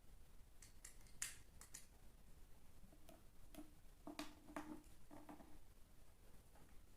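Near silence with a few faint, sharp clicks or taps in the first two seconds, then several soft, short low sounds around the middle.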